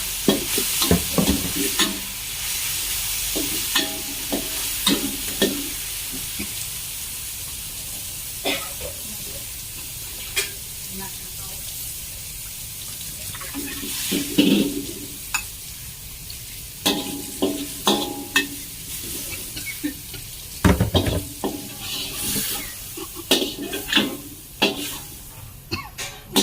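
Chicken Thai basil stir-frying in a pan: a steady sizzle that slowly dies down, with a spatula stirring and scraping, clinking against the pan many times.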